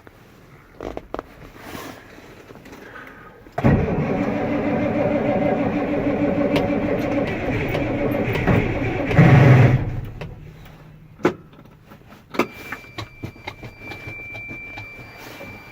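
1994 Mack truck's Econodyne diesel being cranked on a cold start: the starter turns the engine steadily for about six seconds, with a brief surge near the end, then stops without the engine running on. A few clicks and a steady high-pitched tone follow.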